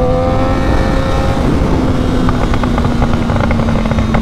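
Triumph Daytona 675R's inline-three engine under hard acceleration, its note rising in pitch for about the first second and a half, then dropping to a lower, steadier note, under heavy wind noise on the helmet microphone.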